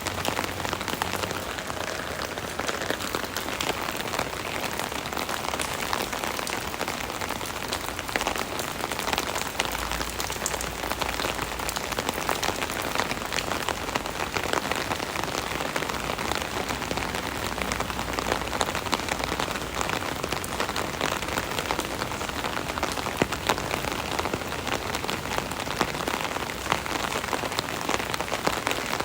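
Steady rain pattering on an umbrella overhead: a dense, even spatter of countless small drop ticks.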